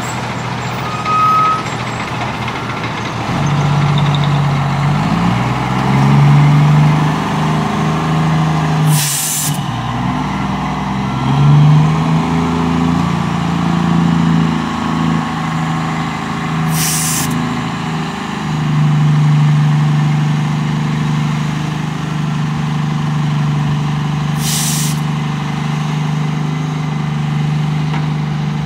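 Heavy diesel engines of a Cat 312CL excavator and a Kenworth T800 dump truck working during loading, the engine note rising and falling under load. Three short, sharp hisses of released air, about eight seconds apart, from the truck's air system.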